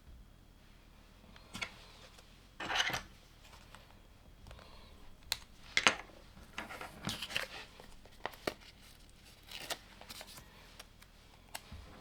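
Plastic LEGO pieces being handled and pressed together: a scatter of short clicks and brief rustles, a few seconds apart.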